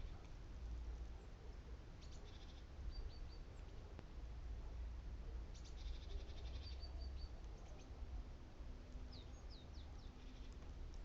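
Great tits calling: short high chirps, a couple of quick rattling calls, and several brief downward-sliding notes near the end.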